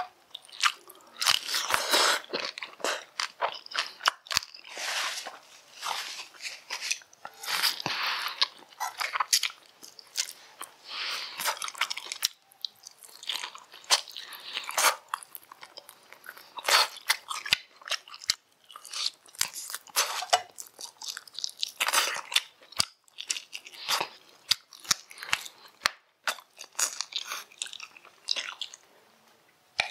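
Close-miked chewing and crunching of fried rat meat, with irregular crisp crunches and bites coming and going throughout.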